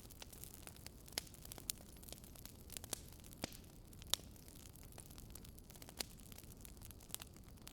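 Wood fire crackling in a fireplace: burning logs give irregular sharp pops and snaps over a faint steady hiss, the loudest snap about four seconds in.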